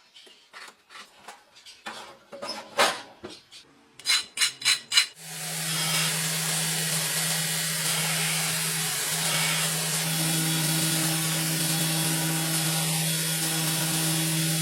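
Irregular scraping and rasping strokes, then four sharp strikes. About five seconds in, a power tool spins up and runs steadily with a low hum and a hiss, working steel.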